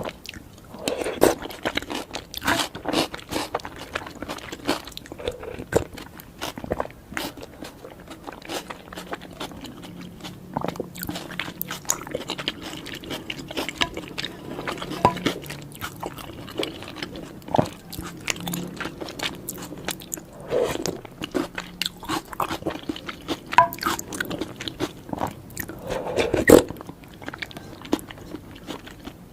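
A person biting into and chewing food: a steady run of small sharp clicks and wet mouth sounds, broken by a few louder bites, the loudest near the end.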